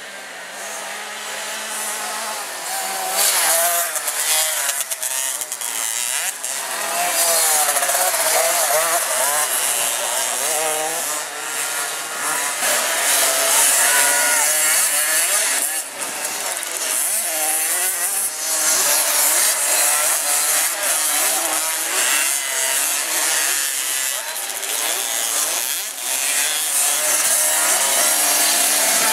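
Small 50 cc two-stroke motocross bikes racing, their high-revving engines rising and falling in pitch as the riders work the throttle. They get louder about three seconds in.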